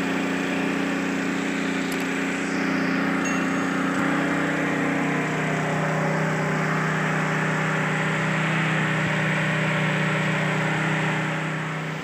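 Engine-driven water pump running steadily at a constant speed.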